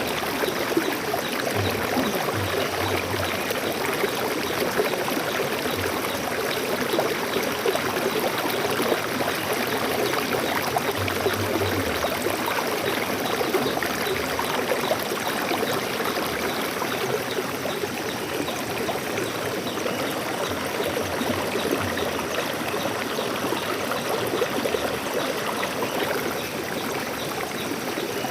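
Stream water flowing steadily, a constant even trickling and splashing with no pauses.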